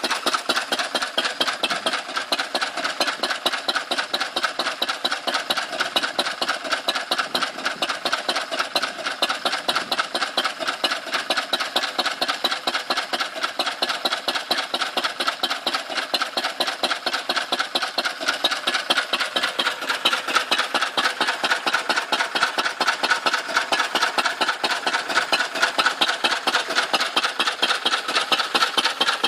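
Lister B stationary engine running steadily at an even, rapid beat while it drives a pump jack.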